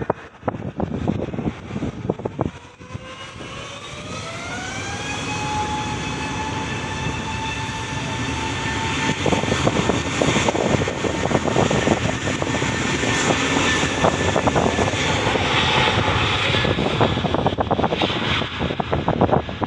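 Airliner's engines spooling up to takeoff power for the takeoff roll: a whine rising in pitch about three seconds in, levelling off into a steady tone. The engine roar grows louder over several seconds and stays loud to the end.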